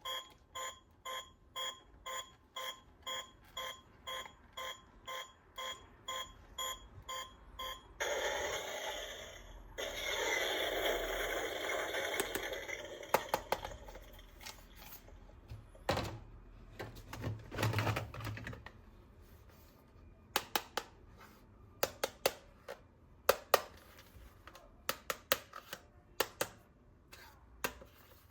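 An electronic beep repeating about twice a second for roughly eight seconds, then a few seconds of rustling, then a long run of sharp plastic clicks and knocks as toy guns are handled.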